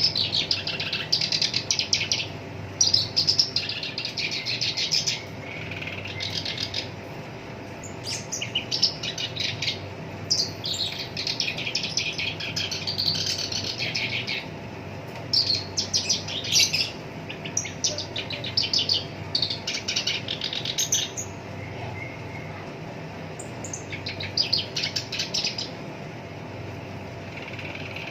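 Black-browed reed warbler singing: harsh, fast chattering phrases of rapid-fire notes, in bursts of a second or two separated by short pauses.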